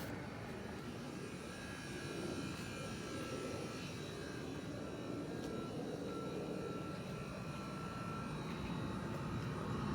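MG4's air conditioning running with a steady, odd buzzing sound and a faint high tone that comes and goes, which the owner does not take to be normal.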